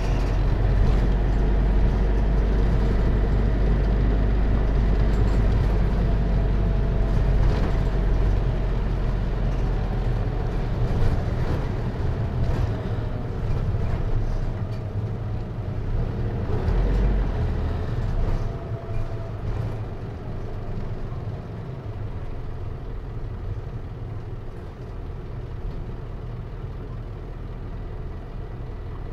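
Hino Liesse microbus's J05C four-cylinder diesel engine and automatic transmission running, heard from inside the cabin. The engine sound is heavy and low, and it grows quieter after about eighteen seconds.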